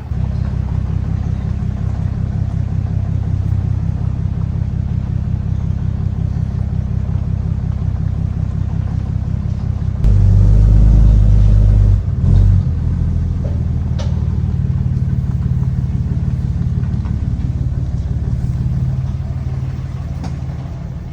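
Swapped LS3 V8 in a Mazda Miata running as the car drives slowly down a road, a steady low rumble. About ten seconds in, a louder low rumble lasts about two seconds, with a short one again just after.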